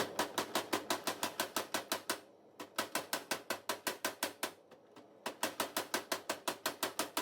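Tabletop power hammer striking a hot Damascus steel billet in fast, even blows about six a second, in three runs with two short pauses.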